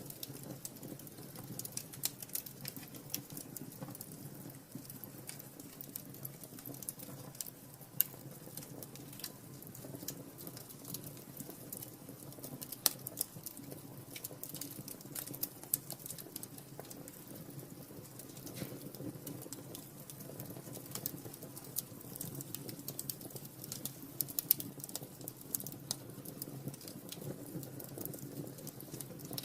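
Wood fire burning in a fireplace: a soft steady rumble of flames with constant irregular crackling and small snaps, and a few louder pops.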